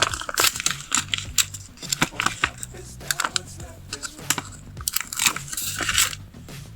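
Paper and sticker sheets being handled, with quick crinkles, crackles and light taps in irregular clusters.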